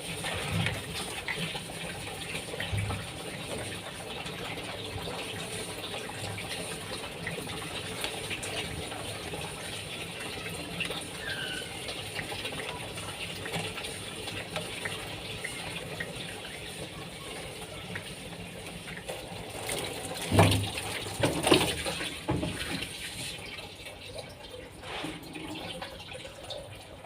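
Water running steadily from a tap and filling a vessel. A couple of sharp knocks come a little past two-thirds of the way through.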